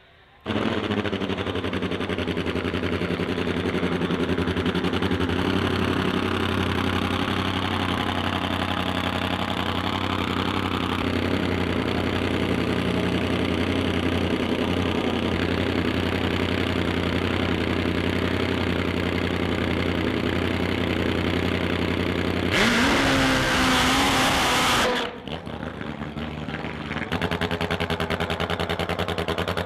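Drag-racing motorcycle engine idling steadily; about 23 seconds in it is revved hard for about two seconds, the loudest part, then drops back to idle.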